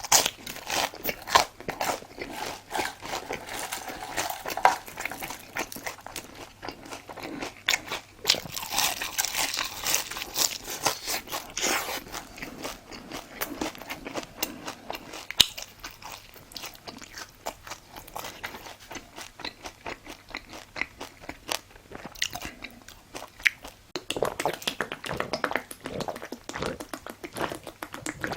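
Close-miked biting and chewing of crunchy food, a dense run of short crunches and crackles that come in uneven bursts.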